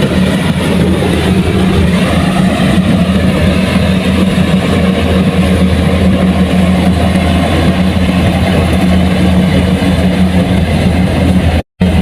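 Heavy farm machine's diesel engine running steadily with a deep, even drone. It cuts out abruptly just before the end.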